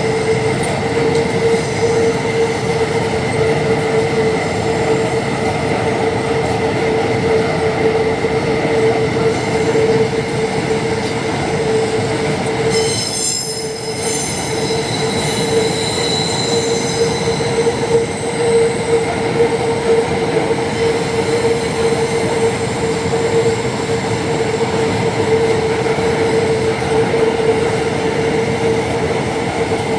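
Empty iron-ore freight train rolling by, its empty wagons making a continuous rumble with a steady tone held over it. About 13 seconds in, a brief high-pitched shriek of several tones cuts in as the rumble dips for a moment.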